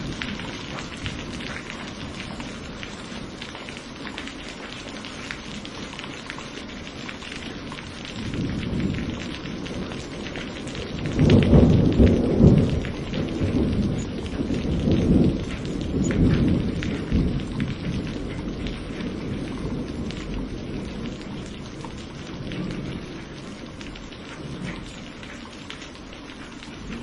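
Steady rain with a long roll of thunder that builds about eight seconds in, is loudest a few seconds later and rumbles away over several seconds.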